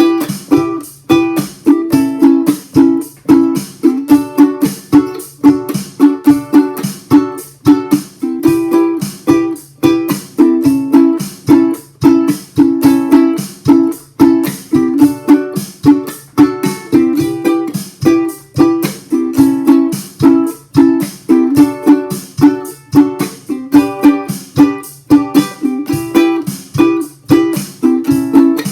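Ukulele strummed in a steady rhythm with a chunking pattern of muted, percussive down-up-up strokes, over a drum machine beat.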